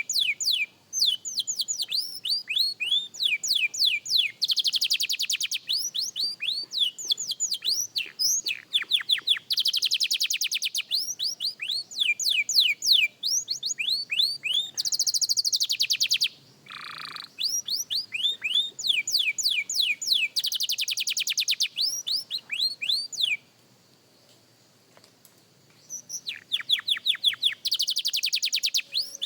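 A young canary practising its song: phrases of rapid repeated down-slurred notes alternating with fast, dense trills, with a pause of a couple of seconds about three quarters of the way through.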